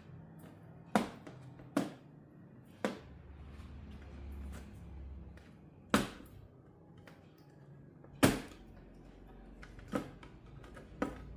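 Seven sharp clicks and knocks at irregular intervals, typical of tools and parts being handled and set down during bench repair work on a TV. A faint low background hum runs underneath.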